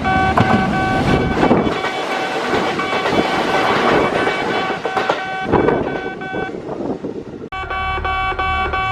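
Kintetsu train passing through a station: a loud rushing run of wheel and rail noise with sharp clicks, which cuts off abruptly near the end, with guitar background music underneath.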